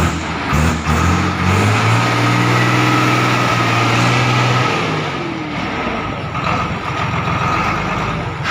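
YTO 1304 tractor's diesel engine revved up and held at high speed for a few seconds, then dropping back about five seconds in to a rougher, lower-speed running.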